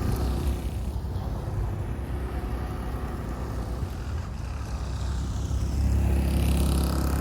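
Small single-cylinder two-stroke engine of a 1996 Suzuki RB50 GAG minibike running, getting louder about six seconds in as it picks up revs.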